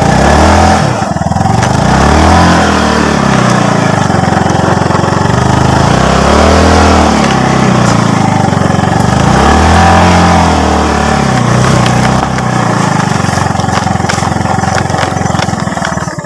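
Small motorcycle engine under way, its pitch rising and falling about four times as the throttle is opened and eased, then running steadier and lower near the end. Steady wind and road rush over the microphone throughout.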